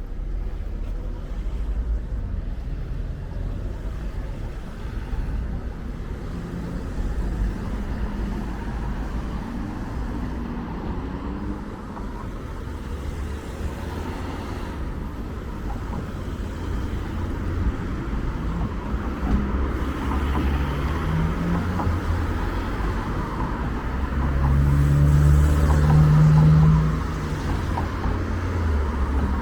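Road traffic passing with a steady low rumble; one vehicle's engine grows louder and passes near the end, then drops away.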